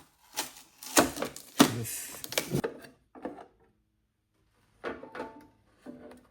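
Parts of a Gaggia Classic espresso machine being handled: a run of knocks and clatters, about two seconds of quiet, then a few more knocks.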